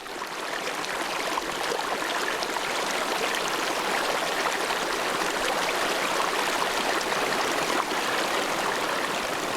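Running stream water, a steady rushing that fades in over the first couple of seconds.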